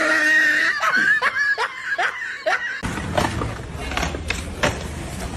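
Laughter in quick, repeated bursts, about three a second, for nearly three seconds. It then cuts off abruptly into a noisier background with scattered clicks and knocks.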